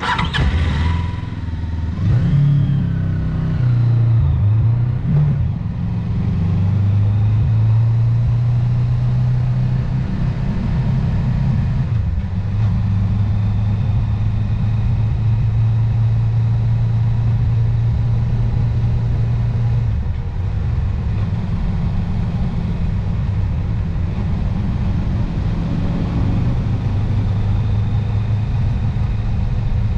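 Motorcycle engine running under way, revving up in the first few seconds and then holding a steady cruise, with a couple of shifts in pitch later on.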